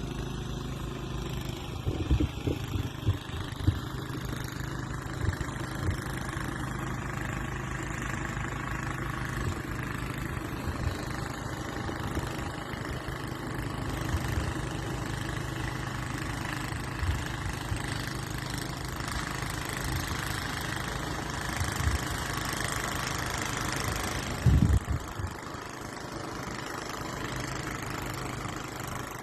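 An engine running steadily, with scattered knocks and a louder thump about three-quarters of the way through. A hiss builds in the later part and drops off just after the thump.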